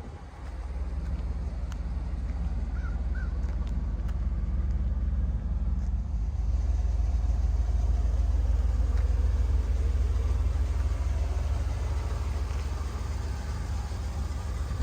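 1986 Pontiac Firebird Trans Am's V8 engine running with a steady low rumble, growing louder about half a second in and easing off a little near the end.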